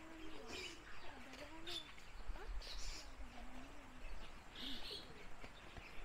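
Captive birds calling, with short high chirps scattered through, over faint voices in the background.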